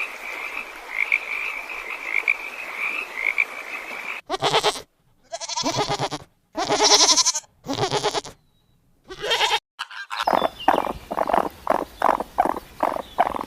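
A run of animal calls. Until about four seconds in, a chorus of frogs calls in a steady, repeated chirping. Then come four separate bleats from a goat or sheep, with short silences between them. About ten seconds in, a hen starts clucking in quick, repeated notes.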